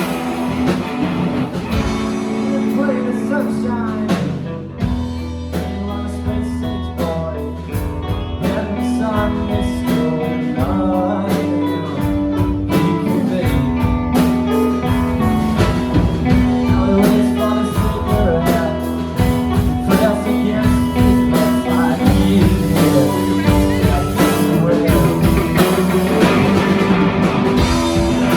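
Live rock band playing a song: electric guitar and drums with a singer.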